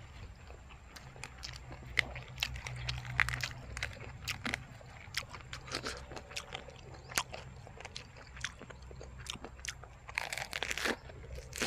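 Close-up mouth sounds of chewing and crunching on spicy jellyfish and tripe salad with fresh lettuce, wet crackly crunches coming irregularly. A dense run of louder crunches comes about ten seconds in, as a lettuce-wrapped mouthful is bitten.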